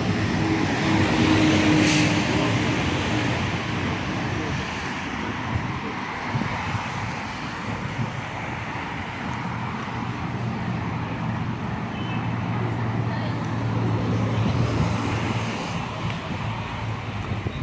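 Rush-hour city street ambience: steady traffic noise from passing vehicles, with a low engine hum that grows stronger about halfway through.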